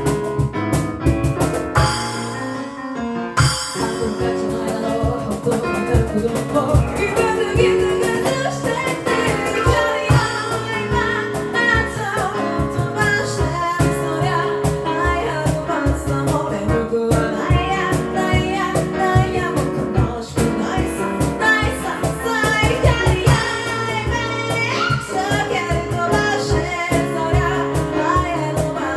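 A cappella group singing in parts, with vocal percussion keeping a steady beat under the voices. There is a short break about two seconds in, then the voices and beat come back in.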